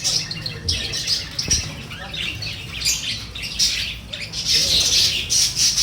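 Many small cage birds chirping and squawking together in a busy, overlapping chatter, over a faint low hum.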